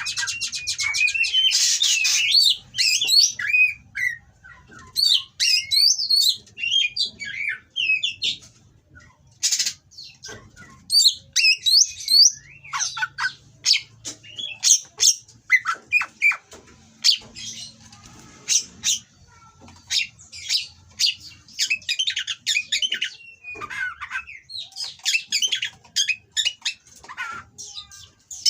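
Oriental magpie-robin (kacer) singing a fast, varied song of high whistled sweeps mixed with harsh, scratchy notes, in short phrases with brief pauses between them.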